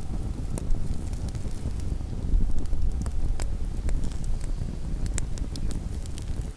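Wood campfire crackling, with scattered sharp pops and snaps, over a low rumble of wind on the microphone.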